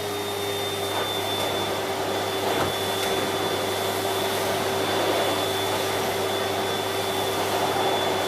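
Siemens Z6.0 Power 2500 W bagged cylinder vacuum cleaner running steadily at a turned-down power setting, an even rushing hum with a constant whine.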